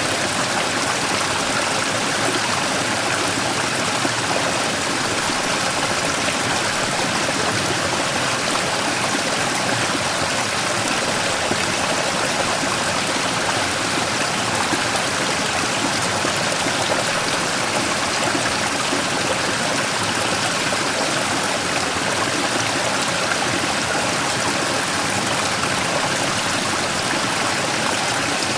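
Mountain stream rushing and splashing over a large rock in a small waterfall, a steady, unbroken water noise.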